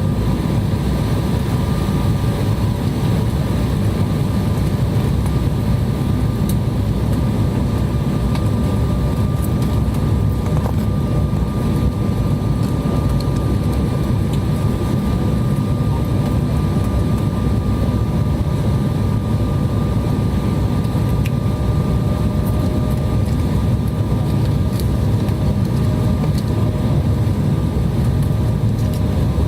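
Airliner cabin noise heard from a window seat: a steady jet engine and airflow rush, with a few faint whining tones held steady throughout.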